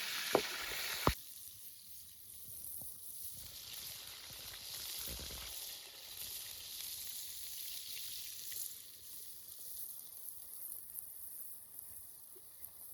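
Food sizzling as it fries over a fire, with a few sharp clicks in the first second. About a second in, the sizzle drops suddenly to a quieter, steady hiss, and a brief low rumble comes about five seconds in.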